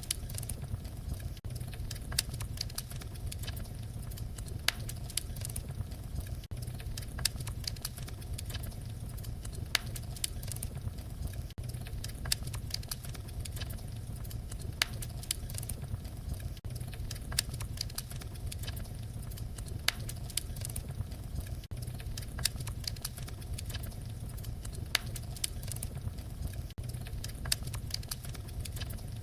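Wood fire crackling in a fireplace: a steady low rumble of flames with irregular sharp pops and crackles scattered throughout.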